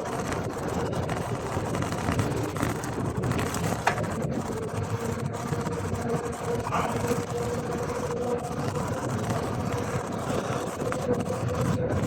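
Steady rush of wind on the microphone and tyre noise from a gravel bike being ridden into a headwind, with a faint steady hum through the second half.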